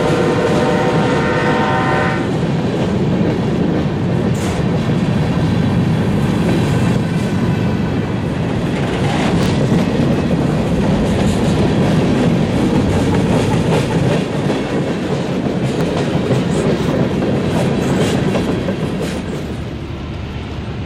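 A diesel locomotive horn sounds at the start and stops about two seconds in. Then a freight train's cars roll past close by: a loud, steady rumble of steel wheels on rail with scattered clicks and clanks.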